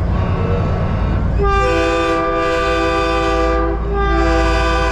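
Truck-mounted multi-chime train horn blowing a chord of several notes together, starting about a second and a half in, held for about two seconds, then sounded again after a brief break. A steady diesel engine rumble runs underneath.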